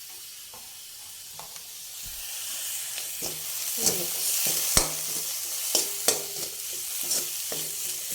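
Food sizzling in a hot pan while being stirred, the sizzle growing louder a couple of seconds in, with a stirring utensil clinking against the pan several times.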